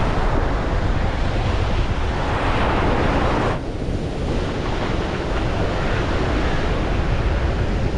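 Sea surf washing, with wind buffeting the microphone; a wash of water swells and cuts off sharply about three and a half seconds in.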